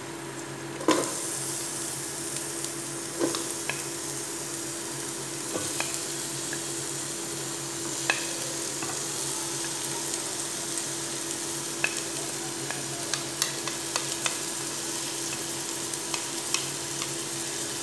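Sliced onion and grated ginger sizzling as they are added to hot oil and browned garlic in a metal pot. The sizzle grows stronger about a second in, with scattered light clicks and a steady low hum underneath.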